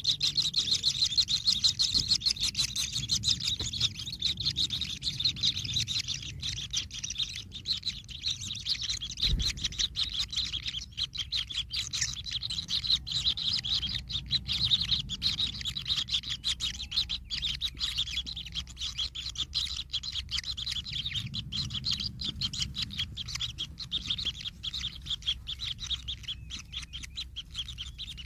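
Kingfisher nestlings giving rapid, unbroken high-pitched chirping begging calls, a little weaker toward the end.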